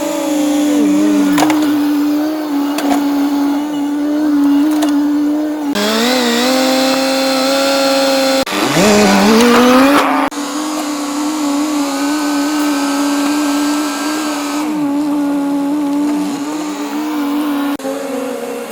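Excavator running under load, a steady whine, with a rise in pitch as it revs up between about 8 and 10 seconds in. The sound breaks off sharply several times, as from one edited clip to the next.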